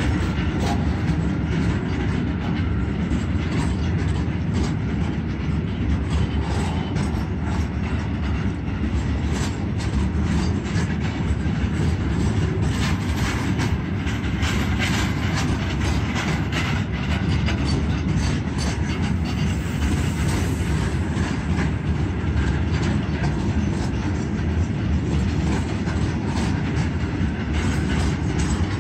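Freight train of covered goods wagons rolling past: a steady rumble of steel wheels on rail with a dense run of clicks as the wheels cross rail joints.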